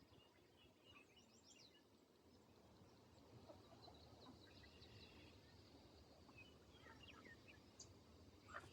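Faint bird chirps and short peeps scattered over a low, steady background rumble, with a slightly louder call near the end.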